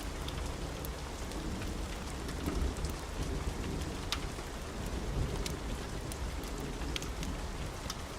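Steady rain with a low rolling rumble of thunder that swells in the middle. Scattered sharp crackles from a wood fire pop through the rain.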